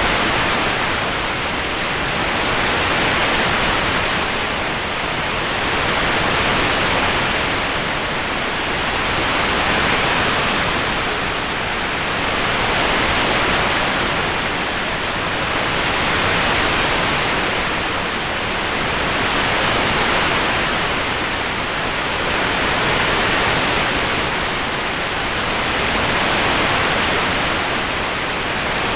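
Steady rain sound: an even hiss that swells and eases about every three and a half seconds.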